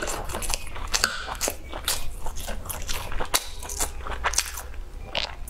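Close-miked eating: biting into and chewing spiced grilled sausage, a quick irregular run of sharp wet crunches and mouth clicks.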